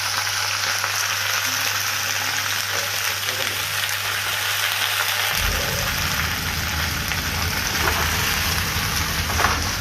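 Spinach and browned garlic frying in hot peanut oil in a pan: a steady, dense sizzle. A low hum joins in about halfway through.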